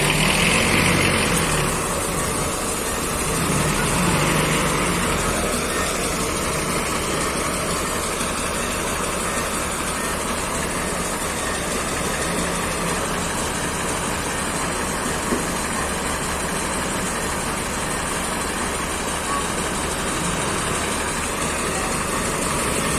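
Forklift engine running steadily, a little louder in the first few seconds, with a single short tick about fifteen seconds in.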